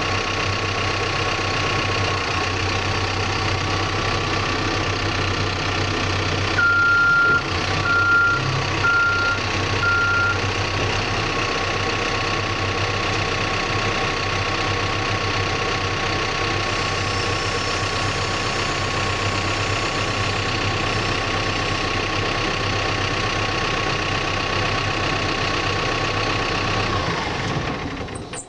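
Backhoe engine running steadily, with the backup alarm beeping four times about a quarter of the way in, one longer beep and then three short ones. The engine sound dies away near the end as the machine shuts down.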